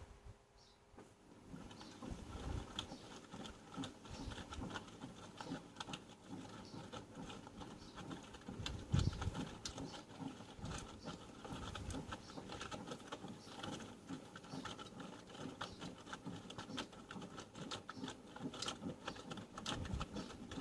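Panasonic front-loading inverter washing machine in its wash phase: the drum turns and wet laundry tumbles and splashes inside, making an irregular pattering with soft thuds under a faint steady motor hum. The heaviest thud comes about nine seconds in.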